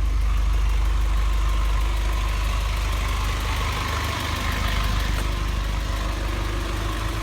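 Engine of a 2005 Isuzu box truck idling steadily, a constant low rumble.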